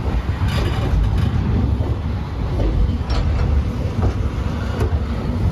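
Passenger train running on the rails, heard from aboard a coach: a steady low rumble with a few faint clicks from the wheels.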